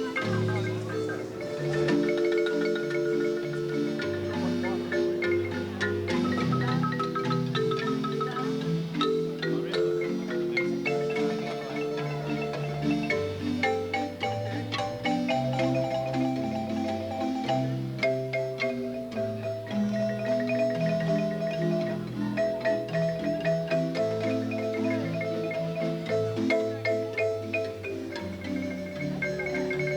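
Marimba music: a steady stream of quick struck notes over a lower bass line.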